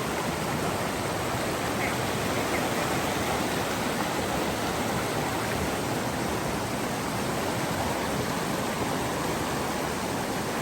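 Steady rushing of a mountain stream's water, unchanging throughout.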